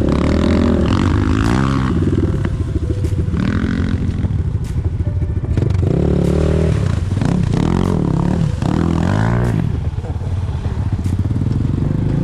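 Chinese enduro motorcycle engine revving up and down repeatedly, the pitch rising and falling six or seven times as the throttle is worked, with a few sharp knocks and clatter.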